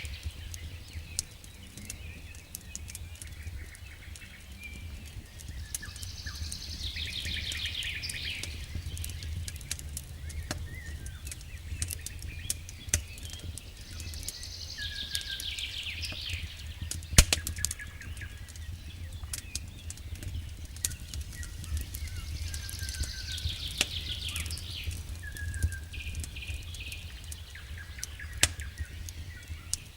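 Wood fire crackling with scattered sharp pops, one louder pop about halfway through, over a low steady rumble. A bird sings trilling phrases every several seconds, with short whistled notes between them.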